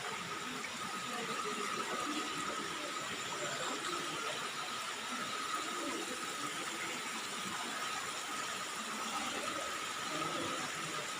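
Steady rushing of falling water from a waterfall, with a thin steady high tone running underneath.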